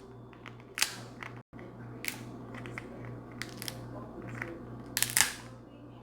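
Metal shell crackers cracking snow crab legs: a series of sharp cracks and clicks at irregular intervals.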